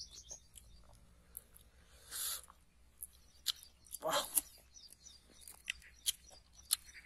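Person chewing raw wild honeycomb: scattered soft wet smacks and clicks of the mouth, with two louder noisy smacks about two and four seconds in.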